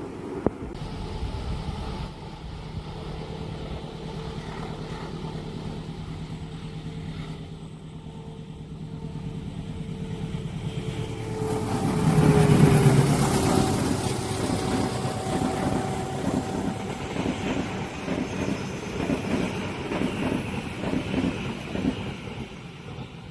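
Diesel-hauled train approaching and passing: a steady engine drone builds up and drops in pitch as the locomotive goes by about twelve seconds in, the loudest moment, followed by a rhythmic clatter of carriage wheels over the rail joints that fades near the end.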